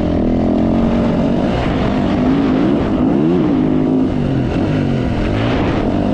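Dirt bike engine under hard riding, its pitch repeatedly climbing and dropping as the throttle is worked and gears change, with a sharp rise and fall about halfway through.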